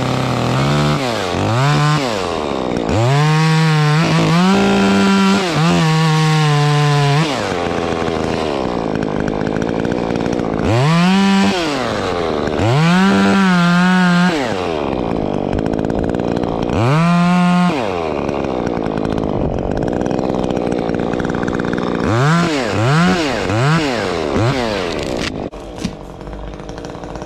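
Stihl MS 150 T top-handle two-stroke chainsaw, with an opened-up muffler, cutting birch: the engine is revved up to full throttle and held for a few seconds at a time, then falls back to idle, over and over. Near the end come a few quick throttle blips before it drops back down.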